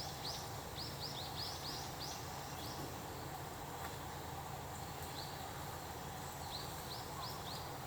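A small bird chirping in quick runs of short high notes, several a second, in two bouts with a pause between them, over a steady low background hum.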